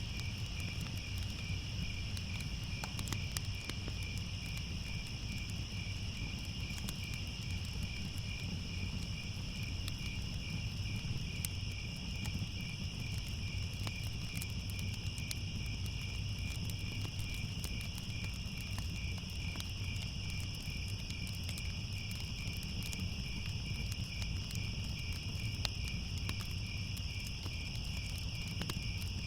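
A chorus of crickets chirping steadily, one of them with an even pulsing chirp, over a low rumble with scattered small crackles, as from a fire.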